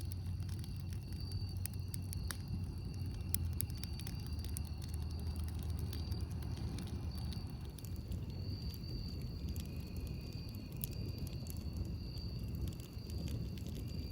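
Campfire burning, with sharp crackles and pops scattered throughout over a steady low rumble. A faint steady high-pitched hum runs in the background.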